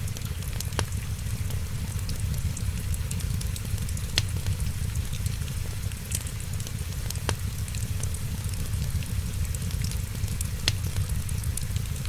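Wood fire crackling: many fine crackles over a steady low rumble, with about four louder sharp pops spaced a few seconds apart.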